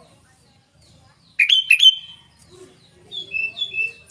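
Sooty-headed bulbul (kutilang) singing: after a short quiet, a pair of loud, sharp notes falling in pitch about a second and a half in, then a few softer whistled notes near the end.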